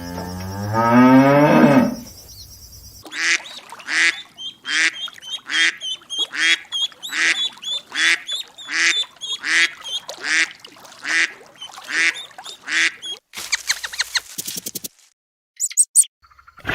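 A cow mooing, its pitch rising, then a duck quacking in a steady run of short calls, about two a second. A few brief clicks follow the quacks near the end.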